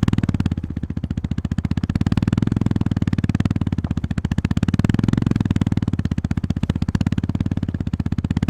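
Honda GB350S's 348 cc air-cooled single-cylinder engine running under way, its even firing pulses easing off about a second in and swelling again around two and five seconds in as the throttle is opened and closed.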